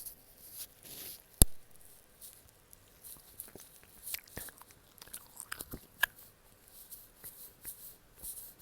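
Close-miked chewing of gummy candy: sticky, wet mouth noises and scattered small clicks, with one sharp, loud click about a second and a half in.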